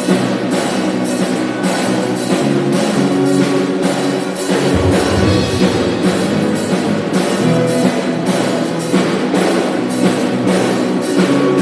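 Worship band playing an instrumental passage, with a drum kit keeping a steady beat of about two hits a second under sustained chords.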